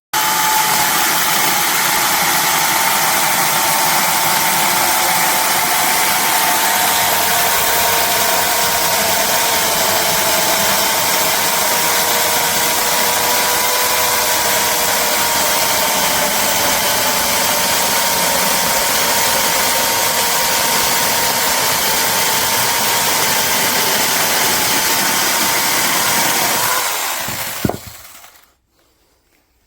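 SEESII 6-inch mini cordless chainsaw running, a steady high electric-motor and chain whine that starts abruptly, holds for about 27 seconds, then winds down and stops with a click.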